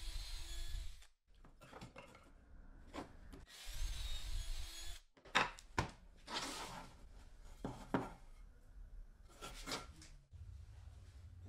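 A small power tool runs briefly twice. It is followed by a couple of sharp knocks and several rubbing and scraping strokes on wood.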